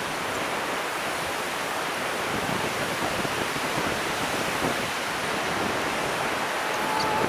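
Pacific Ocean surf washing on the shore, a steady, even rush of noise. There is a short high chirp near the end.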